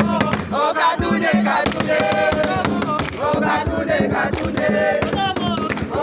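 A group of voices singing together over a beat of repeated sharp claps or drum strokes.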